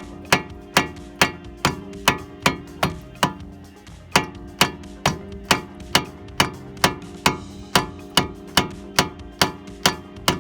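A hammer striking metal over and over, a little over two blows a second, each blow leaving a ringing metallic tone.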